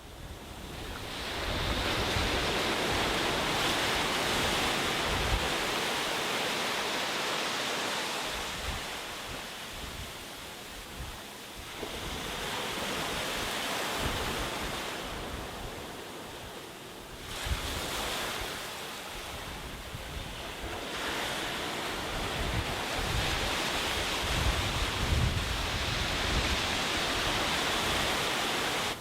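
Sea surf breaking and washing on a beach, swelling and easing every several seconds, with wind rumbling on the microphone.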